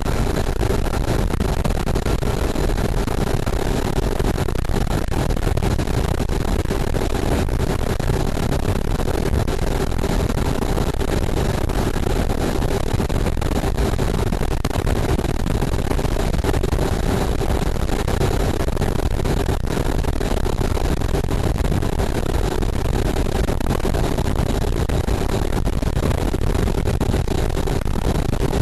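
Motorboat engine running at a steady pitch under a constant rush of noise, with no change in speed.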